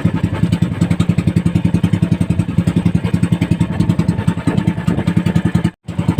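Small boat engine running steadily, a fast even putter that cuts out for a moment near the end.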